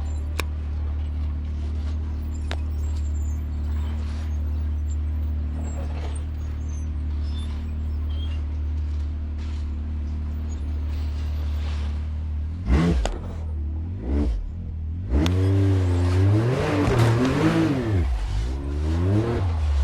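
Off-road vehicle engine running low and steady while crawling slowly over rocks, then, about two-thirds of the way through, revving up and down repeatedly as it works up or through the rocky section.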